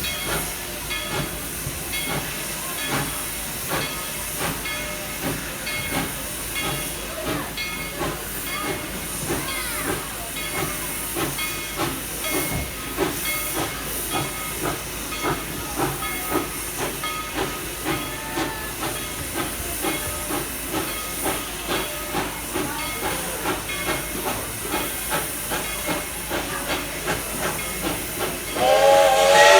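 Narrow-gauge steam locomotive No. 190 hissing steam, with a slow, regular beat under the hiss. Near the end its chime steam whistle, the original White Pass whistle, sounds loudly, several notes at once.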